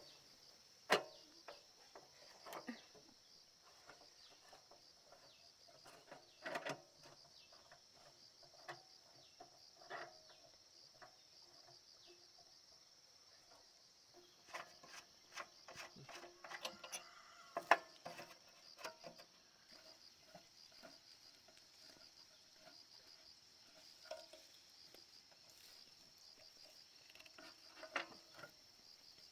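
Insects chirring steadily, with scattered clicks and knocks throughout and a few louder ones near the middle.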